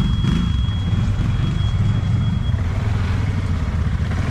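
ATV (quad bike) engine running steadily, with a thin high steady tone over the first two and a half seconds.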